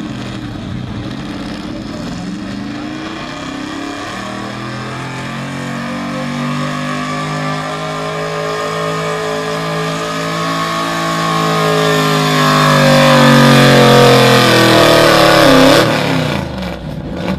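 Modified gas street truck's engine held at high revs while pulling a weight-transfer sled: the pitch climbs and then sags as the load bogs it down, growing louder as it comes closer, then drops away abruptly near the end.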